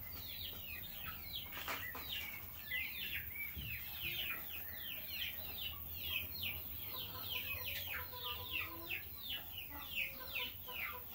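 Birds chirping without pause: many quick, high chirps, each sliding downward, several a second, over a faint steady low hum.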